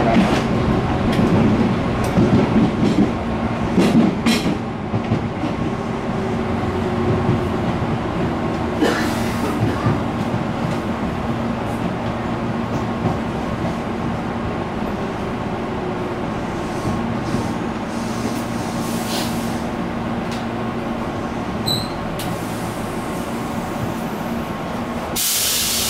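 Interior running noise of a Tobu 8000 series electric train, with a few clicks of wheels over rail joints in the first seconds, then a steady rumble as it slows into the station. Near the end a loud hiss of air starts, as the train stops and its doors open.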